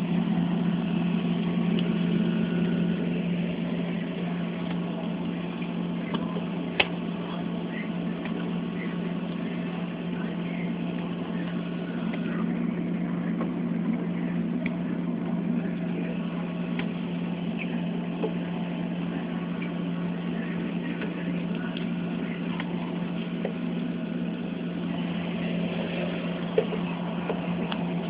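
Refrigerator running with a steady low hum, with scattered faint clicks and knocks; one sharp click about seven seconds in and another near the end.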